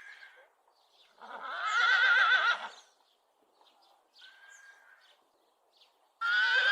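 A horse whinnying: a loud, quavering, high-pitched call about a second in that lasts over a second, a fainter call in the middle, and another loud whinny starting near the end.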